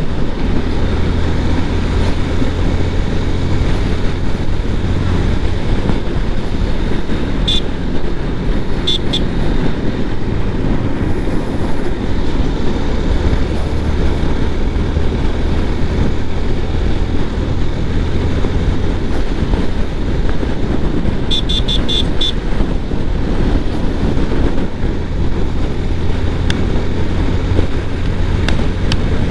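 Steady wind rush inside a closed Axor Apex Vivid full-face helmet, picked up by a helmet-mounted mic while riding a motorcycle at about 80 km/h; the noise is dense and mostly low. A few brief high beeps sound over it, two short groups early on and one longer group about two-thirds of the way through.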